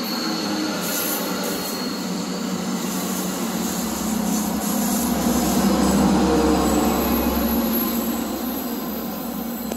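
A train passing by, its noise swelling to a peak about six seconds in and then fading.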